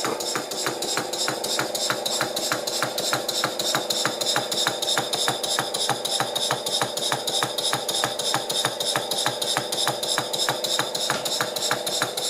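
Stuart Victoria model mill engine running steadily, with a regular knock about four times a second over a constant hum. The knock is the slight clunk the owner puts down to a little play on the end of the crankshaft where the nut goes through.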